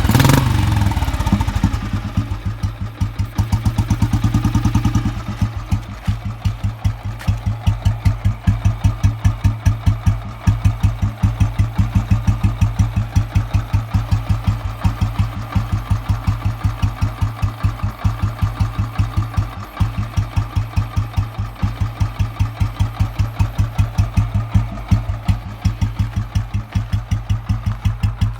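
Royal Enfield Bullet 350's cast-iron single-cylinder engine, just started, with its Indori exhaust. It runs a little fast at first, then settles about five seconds in to a slow, steady idle, each firing a separate thump.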